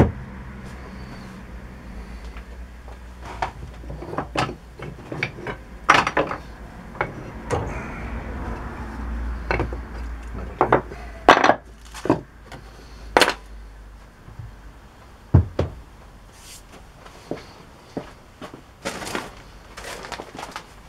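Tools and small metal parts being handled and set down on a workbench: irregular knocks and clinks, some sharp and loud, scattered throughout.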